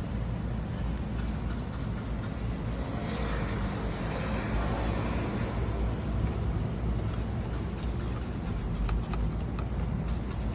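Steady low rumble of a motor vehicle running, with road noise and scattered light rattles, denser in the second half.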